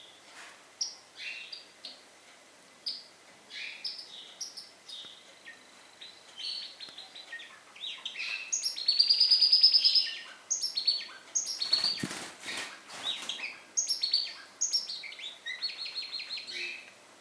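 Pet birds chirping and twittering in short high calls, with a loud, rapid trill around nine seconds in. About twelve seconds in comes a quick cluster of rustling, flapping sounds, like wings beating.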